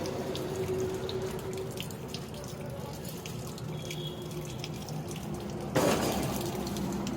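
Water running and splashing against a steady mechanical hum, with scattered small clicks; a louder rush of noise starts suddenly near the end.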